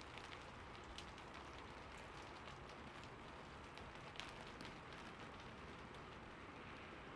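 Steady rain, a soft even hiss with scattered individual drops ticking sharply, one of them standing out a little over four seconds in.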